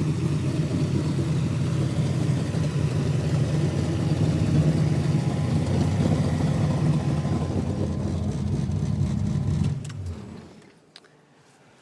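Ford 5.0 roller-block V8, bored 30 over, with a Trick Flow stage 2 cam and an Offenhauser dual-four-barrel tunnel ram on two Edelbrock 600 carburetors, running steadily. It is shut off about ten seconds in, and a faint click follows.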